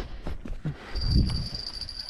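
A night insect trilling on one steady high note that starts about a second in, over low thumps and rustling handling noise, loudest just after the insect starts.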